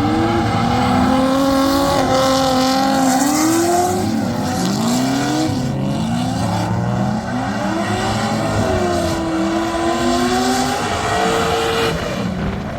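Drift car engine revving hard, its pitch climbing and dropping repeatedly as the throttle is worked, with a hiss of tyre noise over it.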